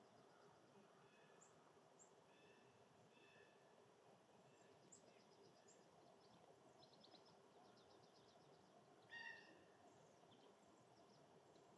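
Faint songbird calls: scattered short chirps and quick trills, with one louder call about nine seconds in, over a steady low hiss.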